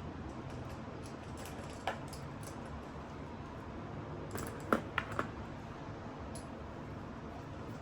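Steady room noise with scattered light clicks and taps of small objects being handled: one about two seconds in and a quick cluster of three sharper ones about five seconds in.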